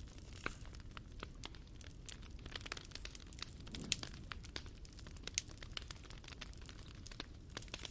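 Wood fire crackling, with irregular sharp pops over a low steady rumble; the loudest pops come about four seconds in and again a second and a half later.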